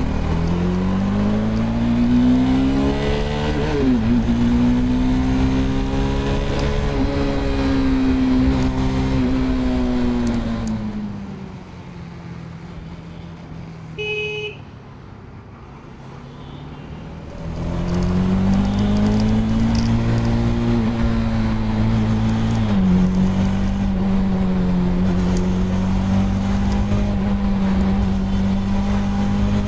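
Bajaj Dominar 400's single-cylinder engine and exhaust under way: it pulls up through the revs with a gear change about four seconds in, then holds a steady cruise. Around a third of the way through it drops away to a low, quiet running for several seconds, during which a short beep sounds. It then pulls up again and cruises steadily, with another shift about two-thirds of the way through.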